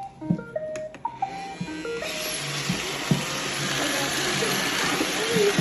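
Robot vacuum playing a short run of electronic start-up beeps. About two seconds in, its vacuum motor and brushes start with a steady whirr.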